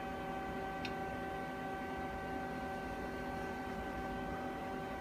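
Steady electrical hum made of several fixed tones over a low background noise, with one faint tick about a second in.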